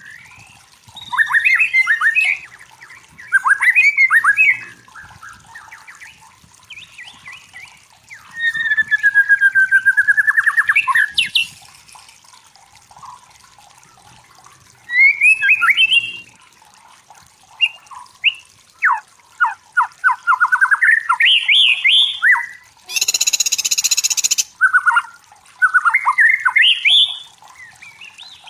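White-rumped shama singing: bursts of rapid chattering trills and sliding whistles with short pauses between phrases, and one loud harsh rasping call about two-thirds of the way through.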